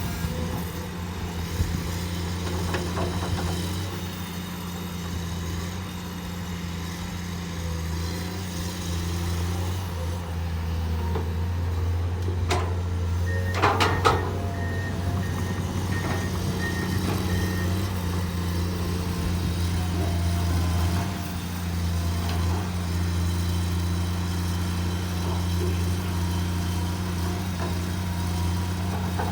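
Diesel engines of hydraulic excavators (a CAT 323GC and a Komatsu PC210-10) running steadily under work. A few sharp metallic clanks come about halfway through, followed by several seconds of a repeating beeping alarm.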